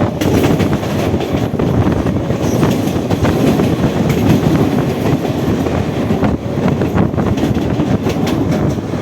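Indian Railways EMU electric train running at speed on the track: a loud, continuous rush of train noise, with rapid clicks of the wheels passing over rail joints.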